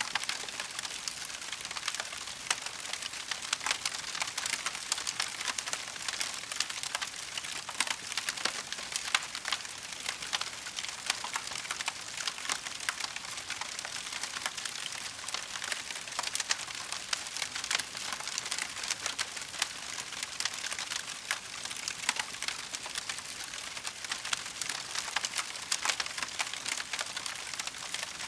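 Wood fire crackling in a fireplace: a steady hiss with dense, irregular pops and snaps throughout.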